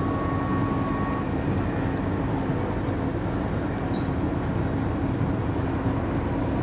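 Interior running noise of a Class 458 electric multiple unit travelling along the line: a steady rumble with a constant hum. A faint higher whine fades out about a second in.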